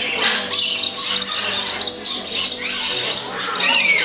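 Many small birds chirping and twittering together in a dense, overlapping chorus of short high calls, with one longer falling call near the end.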